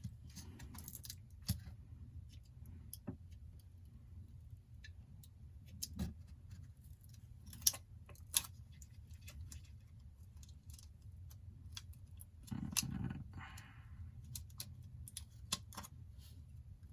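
Small metal tweezers clicking and tapping lightly against iPhone 8 parts and connectors in scattered ticks, over a low steady hum. A short louder noise comes about thirteen seconds in.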